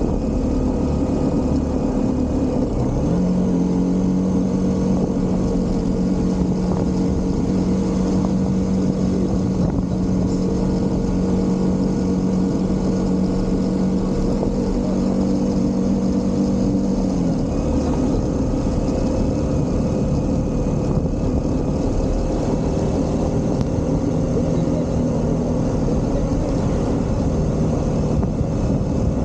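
Single-cylinder motorcycle engine running at a steady cruise, with heavy wind rush on the microphone. The engine note holds level, then drops slightly a little past halfway through as the bike eases off.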